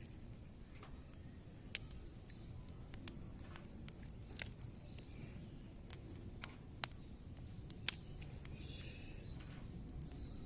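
Wood fire of zelkova and willow branches crackling in a fire pit, with irregular sharp pops over a low steady rumble; the loudest pops come about two seconds in and near eight seconds.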